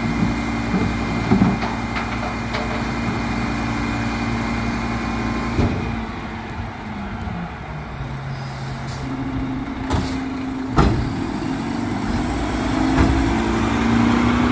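Garbage truck's diesel engine running, its pitch dropping about six seconds in and climbing again over the last few seconds. Several sharp knocks sound through it, with a short hiss about ten seconds in.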